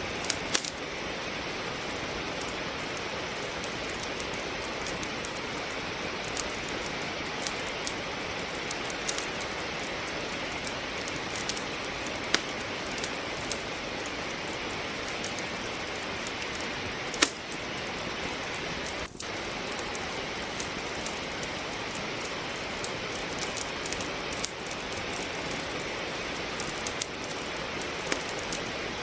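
Steady rain falling, mixed with the irregular sharp crackles and pops of wood logs burning in a fireplace, one pop louder than the rest a little past halfway.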